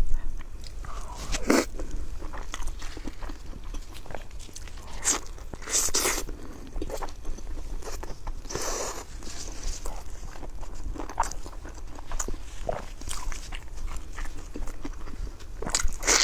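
Close-miked eating sounds: a person chewing and biting food, with wet mouth noises and irregular sharper crunchy bites every few seconds.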